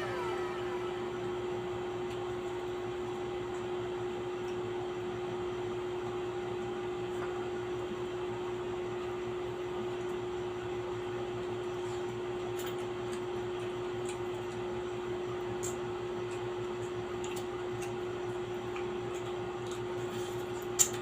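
A steady motor hum with one constant tone throughout. Faint clicks come in over the second half, with a sharper click near the end.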